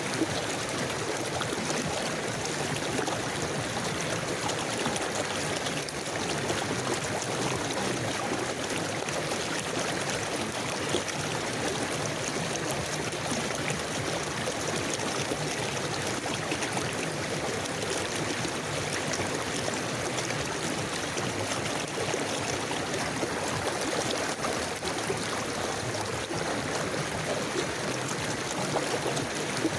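River water flowing steadily over stones, a continuous babbling rush with no breaks.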